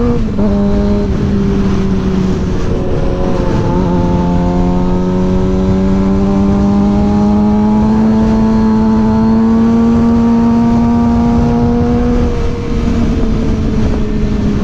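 Suzuki GSX-R 600 inline-four engine pulling at steady road revs, its pitch climbing slowly for several seconds and dropping back near the end, with wind rumble on the mic.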